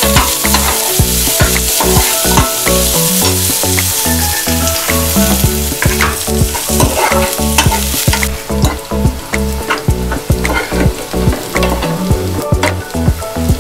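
Chopped onions frying in ghee in a metal pan, sizzling, while a steel ladle stirs and scrapes against the pan with frequent clicks. The sizzle softens about eight seconds in.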